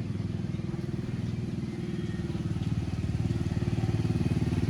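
A small engine running with a rapid, even low pulse, growing gradually louder.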